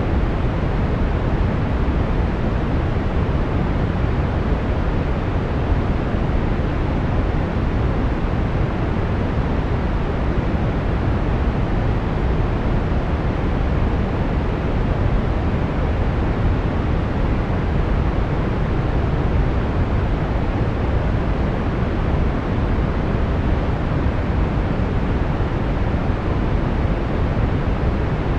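Brown noise: a steady, even rumbling hiss, strongest in the low end and fading toward the highs, unchanging throughout.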